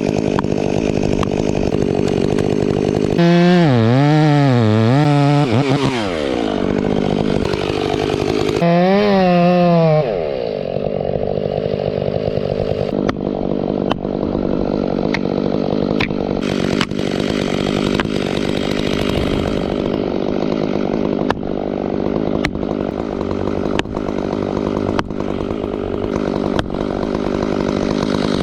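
Stihl chainsaw running under load through a felling cut, its pitch wavering up and down twice in the first ten seconds. Later, sharp knocks come about once a second over the running saw.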